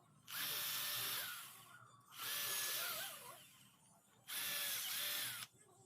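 An electric power tool working on metal, run in three short bursts of about a second each, its motor whine dropping off as each burst ends.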